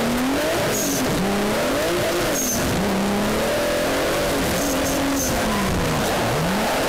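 Twin-turbo Genesis Coupe 3.8 V6 in a G35 Coupe drift car, heard from a camera in the front wheel well: the engine revs up and down repeatedly over heavy road and wind rush, with a few short high chirps.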